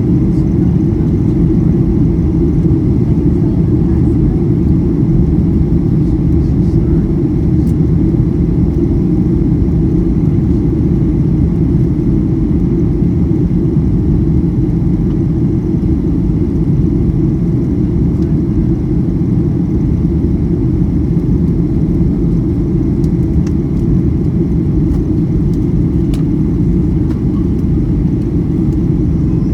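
Steady low rumble of cabin noise inside a Boeing 737-800 airliner, from its CFM56-7B jet engines and the airflow over the fuselage. It stays level throughout, with no sudden sounds.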